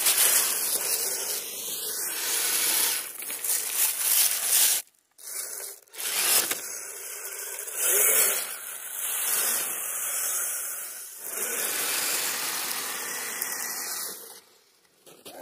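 Radio-controlled vehicle churning through crusty snow: a gritty scraping hiss in uneven surges, cutting out briefly twice about five and six seconds in and fading near the end.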